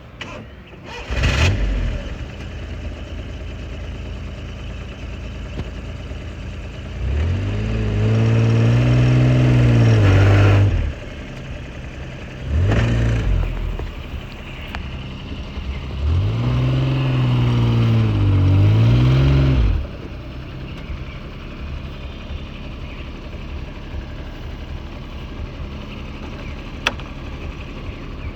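Small old car engine running with the accelerator pumped: a quick blip about a second in, then two long revs of several seconds each that climb, hold and drop back to idle, with another short blip between them.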